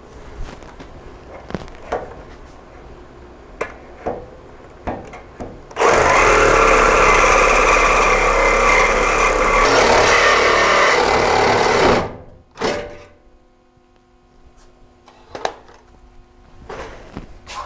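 Scattered light knocks and clinks, then a power tool runs steadily for about six seconds from about six seconds in and stops abruptly.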